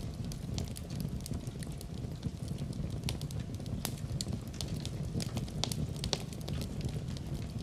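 Wood fire crackling in a fireplace: frequent sharp pops and snaps, several a second, over a steady low rumble of the flames.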